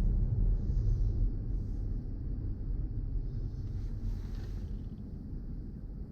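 Low, steady rumble of a car on the road, fading gradually as the car slows down to stop.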